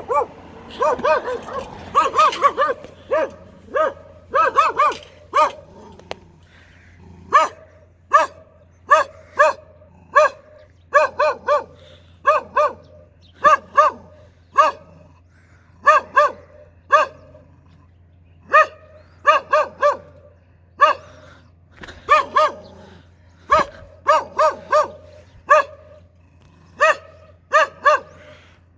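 A dog barking fiercely and repeatedly: short sharp barks in ones, twos and threes about once a second, most crowded in the first few seconds.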